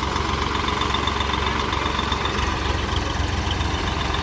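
Swaraj tractor diesel engine running steadily with a low rumble.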